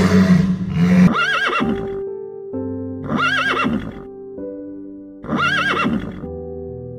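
A horse whinnying three times, each a short call with a quavering pitch, over background music with sustained notes. It opens with a loud rough walrus bellow in the first second.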